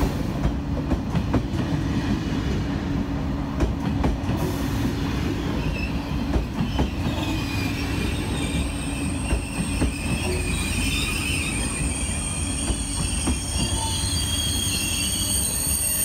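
A train running on the rails: a steady low rumble with irregular knocks of the wheels over rail joints, and about halfway through a high-pitched squeal of several steady pitches sets in and grows louder.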